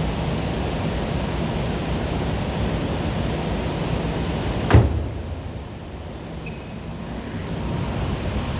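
2010 Audi A4 B8 engine idling roughly, a sign of the camshaft position fault (P0341) it has logged. About halfway through, a single sharp knock is heard; after it the engine sound is quieter for a few seconds, then comes back to its earlier level.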